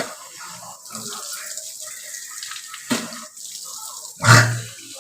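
Tap water running into a bathroom sink, with a loud hawk (a throat-clearing rasp) about four seconds in and a short sharper sound just before it.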